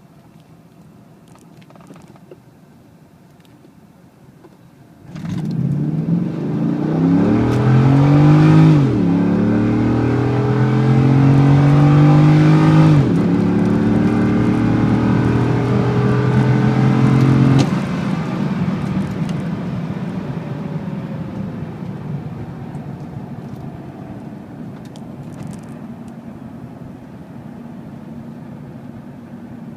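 Chevrolet Corvette V8 heard from inside the cabin. It runs quietly at low speed, then goes to full throttle about five seconds in. The engine note climbs, drops back at two upshifts and keeps pulling on a hard acceleration run to about 100 mph. A little past halfway the throttle closes, and the engine note fades away as the car coasts down.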